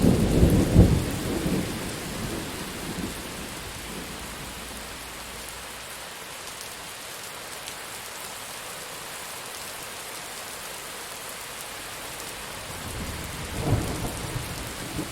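Steady rain falling, with thunder rolling. A loud low rumble fades away over the first few seconds, and another rumble builds near the end.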